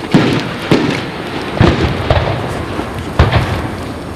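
Aerial fireworks shells bursting: about five sharp bangs, each followed by a rumbling echo.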